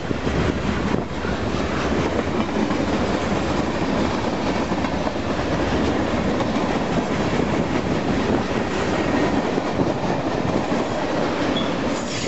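Union Pacific freight train rolling past on the track: a steady, loud rumble of steel wheels on rail, with rapid clicking from the wheels over the rail joints.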